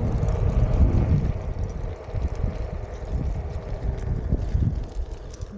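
Wind rumbling on the camera microphone from riding an electric Onewheel board, easing a little about two seconds in.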